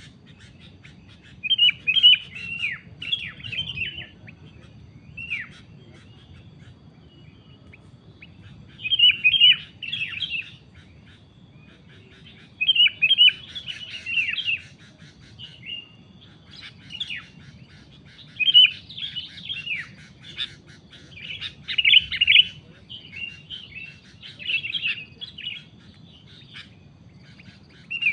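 Sooty-headed bulbul calling in clusters of quick, bubbly chirps, with short pauses between groups and calls coming more often in the second half.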